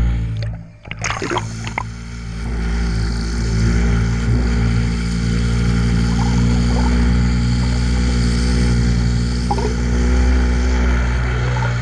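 Boat engine running at a steady drone, with a brief dropout and a few knocks about a second in.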